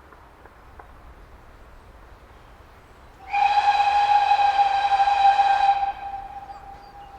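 Great Western tank locomotive's steam whistle: one steady blast of about two and a half seconds, starting about three seconds in, which drops to a faint lingering tone.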